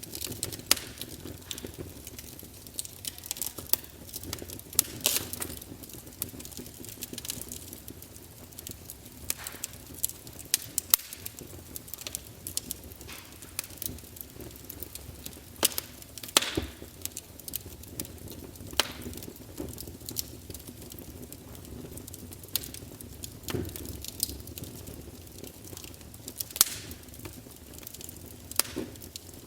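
Wood fire burning in a fireplace, logs crackling with irregular sharp pops over a low steady hiss of the flames.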